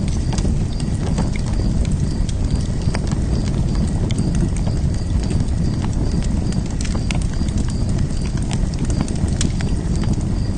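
Fire burning in a fire pit: a steady low rumble of flames with irregular sharp crackles and pops.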